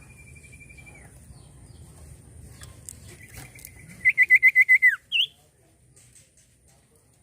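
Common iora singing: a held, slightly wavering whistle, then a long whistle that breaks into a loud run of about seven quick rising notes about four seconds in, ending in a falling slur, and a short upslurred note right after.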